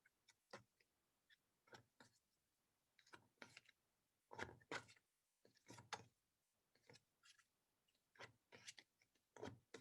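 Near silence with faint, scattered light taps and clicks as sound cards are flipped through one at a time.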